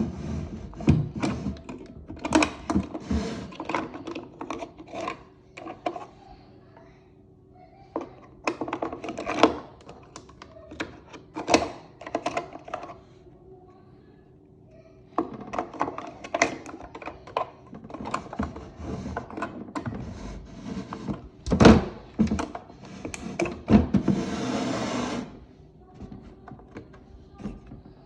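Hard plastic clicks and knocks from a toy washing machine being handled, its door, drawer and buttons worked, over a faint steady hum. A short hiss comes near the end.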